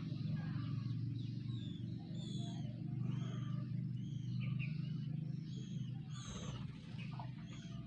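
White-rumped shamas (murai batu) calling in quick, short high chirps that slide in pitch, one after another, over a steady low hum.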